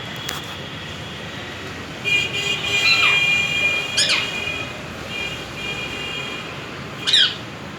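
A vehicle horn sounds a long, steady tone about two seconds in and a fainter one a little later. Between them, a rose-ringed (ringneck) parakeet gives two short screeches that fall sharply in pitch.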